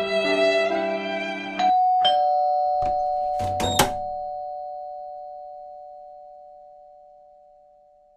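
Music breaks off and a two-tone doorbell chime sounds, a higher note then a lower one, both ringing on and fading slowly. A few sharp clicks come in the middle, as the chime rings.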